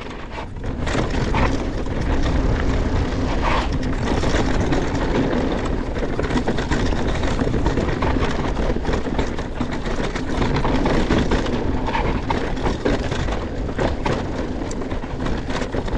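Mountain bike descending a rocky dirt trail: steady tyre and wind rush with frequent rattles and knocks as the bike rolls over loose rocks and ruts.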